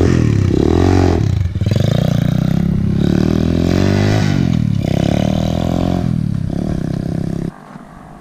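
Dirt bike engine revving, its pitch rising and falling several times, then cutting off suddenly near the end.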